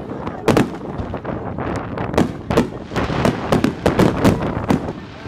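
Fireworks display going off in rapid succession: a string of sharp bangs, about two to three a second, over a continuous crackle.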